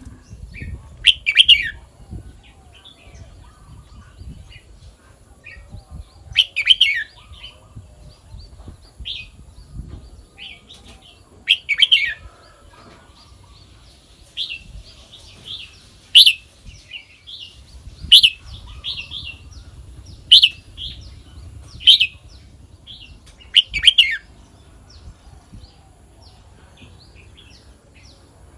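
Red-whiskered bulbul singing: short, loud whistled phrases repeated every few seconds, with softer chirps between them.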